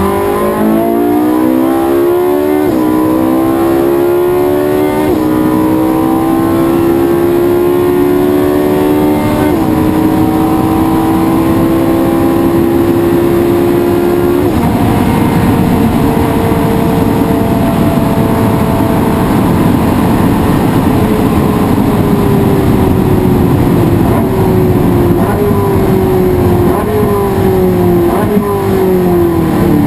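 Race car engine at full throttle, climbing in pitch through the gears with four quick upshifts, then easing off and falling in pitch with three blipped downshifts near the end as it brakes.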